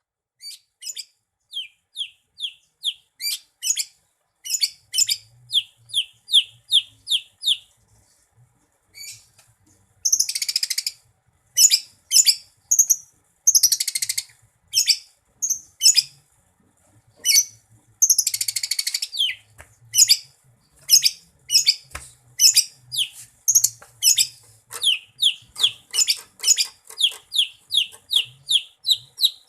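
Greater green leafbird (cucak ijo) singing: long runs of short, quick downslurred whistles at about two a second, broken three times by longer harsh, scratchy chattering phrases.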